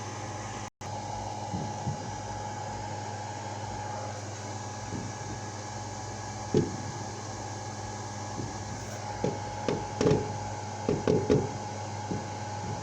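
Distant fireworks going off as a scattering of dull booms, several close together in the second half, over a steady hum and hiss.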